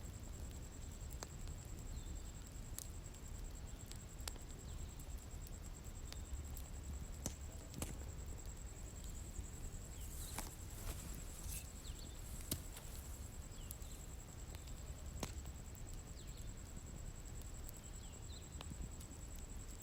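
Outdoor bonfire crackling: irregular sharp pops and snaps over a low steady rumble of the flames, with a thin, steady high-pitched whine.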